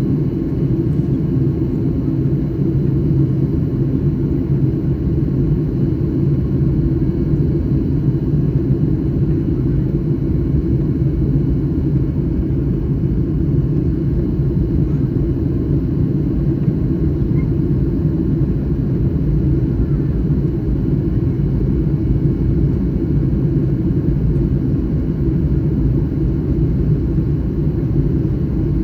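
Boeing 737 MAX 9 airliner in flight on its landing approach: a steady low rumble of engines and airflow that holds an even level throughout.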